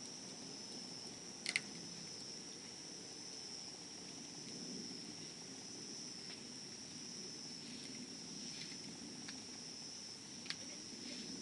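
A wood campfire burning, with a low rustle and sharp crackling pops, one strong pop about a second and a half in and another near the end, against a steady high insect trill that never stops.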